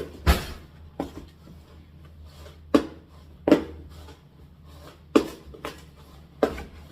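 A spoon stirring dry homemade laundry powder in a container, with sharp, irregular knocks and clacks against the container, about seven in all.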